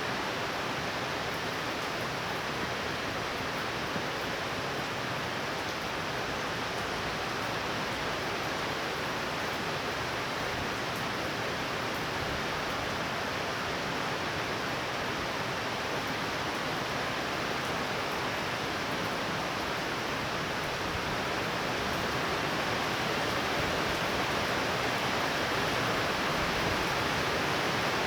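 Thunderstorm rain falling steadily as an even hiss, growing a little louder in the last third.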